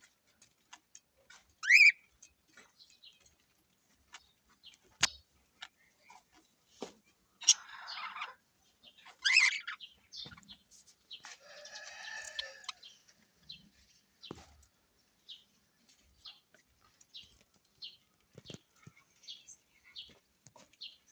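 Small perched birds calling. Two loud, shrill, rising calls come in the first half, along with scattered clicks and a couple of brief rustling bursts. In the second half there is a run of short chirps repeated in quick succession.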